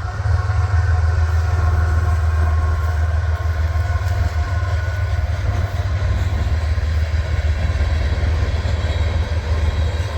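Freight train passing close by: a steady, loud low rumble from the diesel locomotives with rail and wheel noise, and a few faint steady tones above it.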